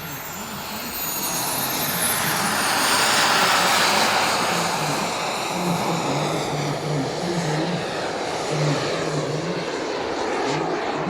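Tomahawk Futura 3D RC jet's turbine engine flying past: a high turbine whistle that slides down in pitch over the first few seconds, over a rush of exhaust that swells to its loudest about three to four seconds in and then slowly eases off.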